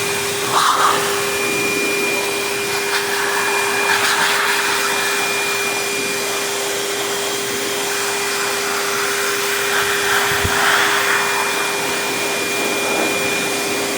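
Dog grooming blower running steadily on a wet dog, a constant rush of air with a steady whine.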